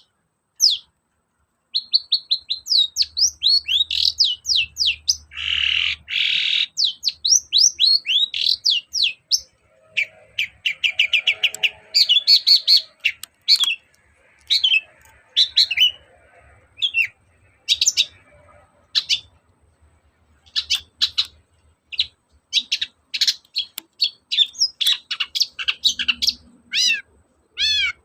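Long-tailed shrike singing a fast, varied song of rapid high sweeping notes, with a harsh rasping burst about six seconds in; in the second half the notes come more spaced out, one at a time.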